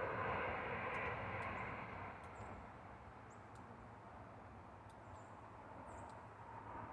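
Rushing noise of a passing engine, loudest at first and fading away over about two seconds, with faint high chirps of small birds repeating every second or so.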